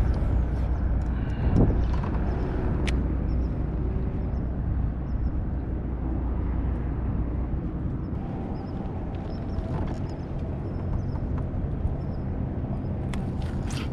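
Wind buffeting the microphone, a steady low rumble that eases a little about halfway through, with a few sharp clicks, several of them near the end.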